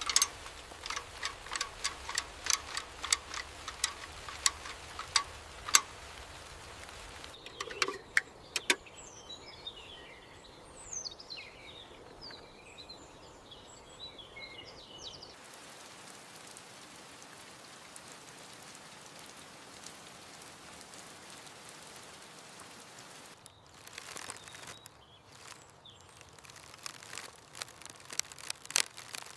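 Forest ambience with a steady rain hiss. A quick run of sharp taps comes in the first six seconds and again near the end. Birds chirp from about eight to fifteen seconds in.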